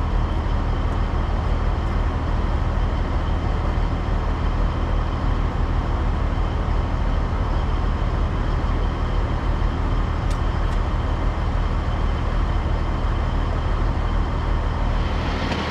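400-horsepower Caterpillar diesel truck engine idling steadily, warming up after start-up.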